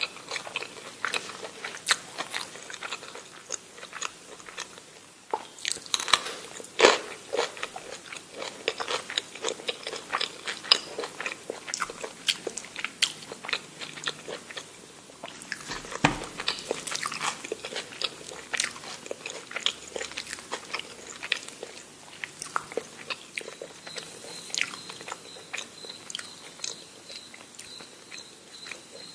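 Close-miked eating: a person chewing and biting food, with many quick wet mouth clicks and smacks and a few louder bites.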